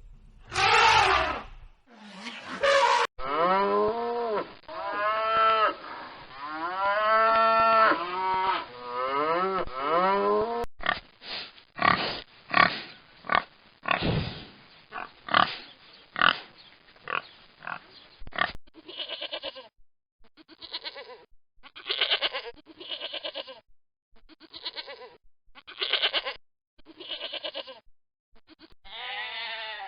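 A sequence of different animal calls, edited one after another: long pitched calls that rise and fall for the first several seconds, then a quick run of short repeated calls, then shorter calls spaced about a second apart. The sound changes abruptly at each cut.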